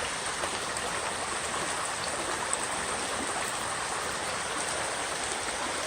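Fast-flowing, rain-swollen stream rushing over rocks in a small waterfall, a steady even rush of water.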